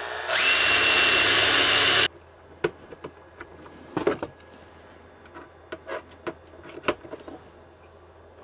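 Electric drill running at speed, its whine stepping up in pitch just after the start and cutting off suddenly about two seconds in, as holes are drilled in aluminium strip. Then a series of sharp clicks and knocks from working the metal parts.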